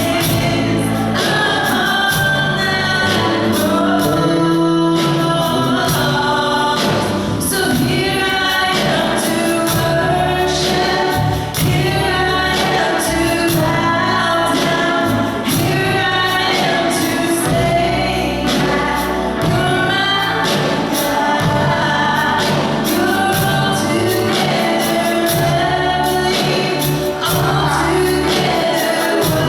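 Gospel song with voices singing over instrumental accompaniment.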